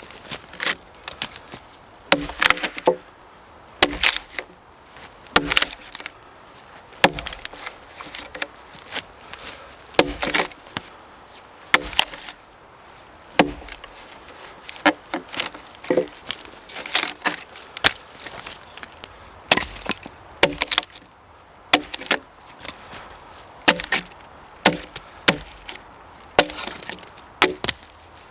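Axe blows striking wood again and again at an irregular pace, about one or two sharp strikes a second, some coming in quick lighter pairs.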